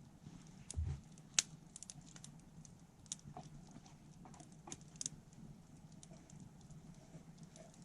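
Wood fire crackling: scattered sharp pops and snaps, the sharpest about a second and a half in, with a dull low thump just before it.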